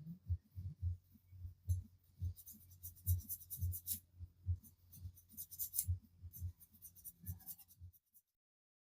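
Hand file rasping on a die-cast metal model car casting in quick repeated strokes, about two or three a second, each with a dull knock. It stops about a second before the end.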